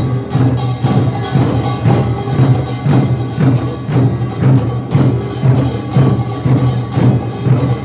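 Korean farmers' band (nongak) percussion playing a steady, driving rhythm of repeated strokes over a sustained low ringing.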